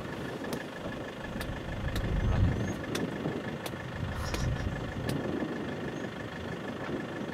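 Safari vehicle's engine idling with a steady low rumble that swells a little twice, with a few faint sharp clicks over it.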